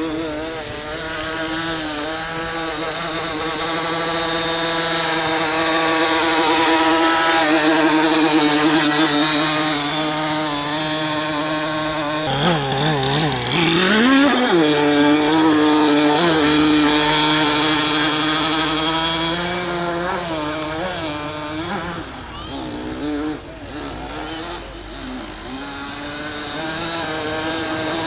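Small nitro-fuelled engine of a radio-controlled boat running steadily with a wavering pitch, rising and falling quickly about halfway through.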